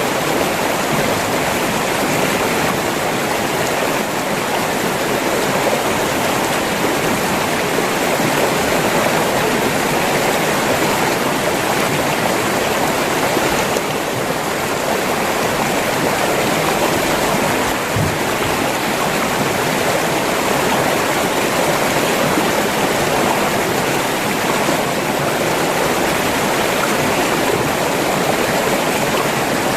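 River water rushing and flowing steadily, a continuous even rush of running water.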